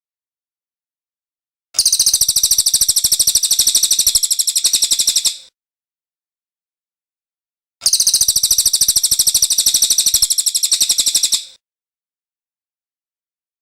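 A cililin songbird singing a very rapid, high-pitched trill in two bursts of about four seconds each, the first starting a couple of seconds in and the second about halfway through, with dead silence between them.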